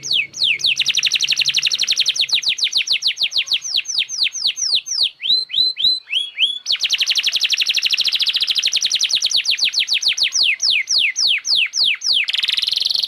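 Domestic canary in full song: long, very rapid trills of downward-sweeping high notes, broken about midway by a few slower, separate down-slurred notes, then a second long rapid trill. A buzzier rattle comes near the end.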